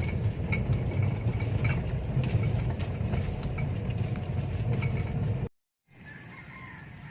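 Steady low outdoor rumble with short, faint bird chirps scattered over it. It cuts off suddenly about five and a half seconds in, and a much quieter outdoor background follows.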